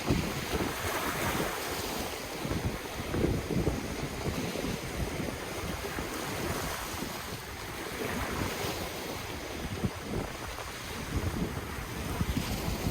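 Ocean waves washing and breaking on the shore in a continuous surf wash, with wind gusting over the microphone as an uneven low rumble.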